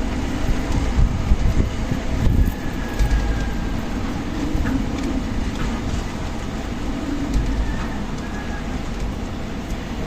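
Strong wind blowing in gusts, a deep rumble with a faint high whistle now and then.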